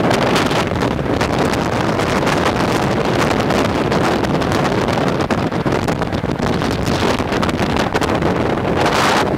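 Steady rush of wind buffeting a microphone held out of an open window of a moving train, over the train's running noise on the track.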